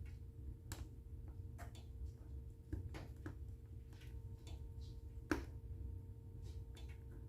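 Wood fire burning in a fireplace, crackling with irregular snaps and pops over a low steady rumble. The loudest pop comes about five seconds in.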